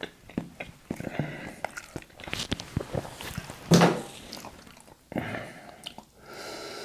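Close-miked eating sounds: seafood being chewed, with many small irregular wet clicks and snaps and a louder one about four seconds in.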